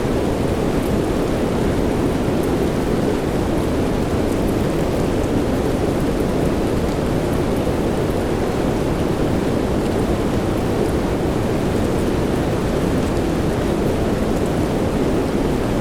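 Steady rain, deep and low-pitched, with a continuous rumble and faint scattered drop ticks up high.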